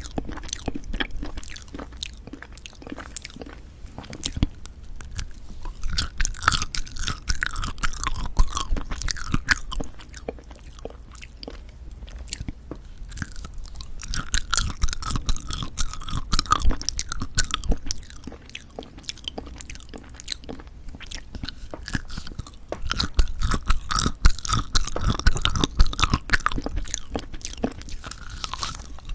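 Jelly candies being chewed close to the microphone: dense little clicks and wet crackles in bouts of several seconds, with quieter pauses between mouthfuls.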